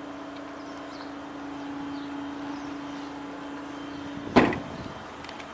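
A small electric motor hums steadily at one pitch, then stops with a single loud thud about four and a half seconds in, like a powered panel or door shutting and latching.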